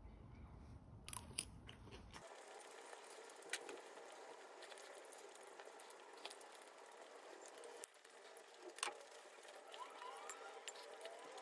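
Faint eating sounds: chewing and crunching on seaweed rice balls with pickled radish, with a few sharp clicks of metal chopsticks against the dish.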